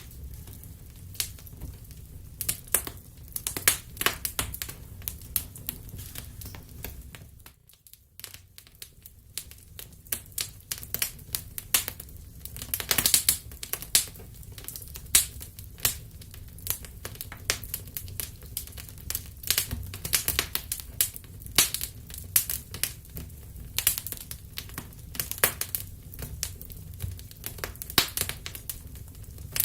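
Wood fire crackling: irregular pops and snaps over a low, steady rumble of flames, with a brief drop almost to silence about eight seconds in.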